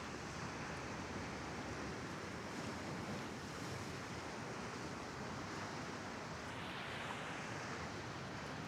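Small Mediterranean waves breaking and washing on a sandy beach, a steady surf wash with one wave swelling louder about two-thirds of the way in.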